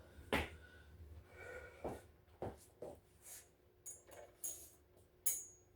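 Scattered light clicks and taps, with a few brief metallic clinks in the second half, from a screwdriver and screws as the heater's top panel is fastened back on.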